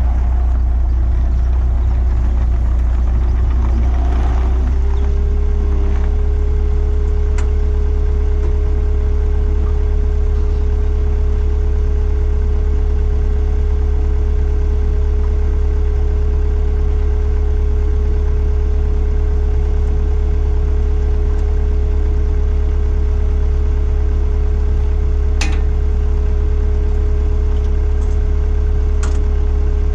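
Skid steer engine running steadily, its pitch stepping up slightly about five seconds in, with a couple of sharp clicks near the end.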